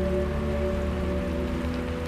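Soft ambient music with long held notes, over a steady hiss of rain and a low steady rumble.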